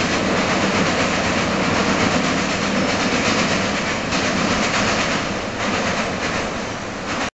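Container wagons of a freight train rolling across a steel girder bridge: a steady clatter of wheels on rail that eases a little toward the end, then cuts off suddenly.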